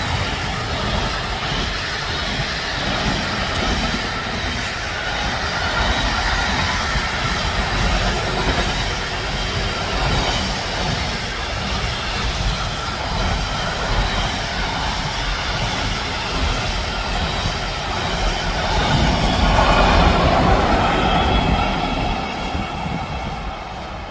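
A train passing close by on the track, its wheels rolling steadily for over twenty seconds, swelling a little near the end and then dropping away as it clears.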